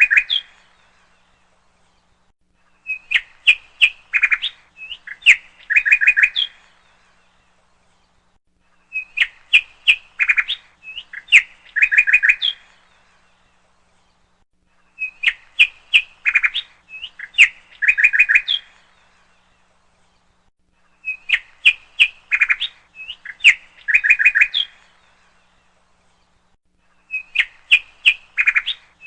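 A bird chirping in a phrase of quick, high chirps and trills lasting about three and a half seconds. The same phrase comes back every six seconds, with silence in between.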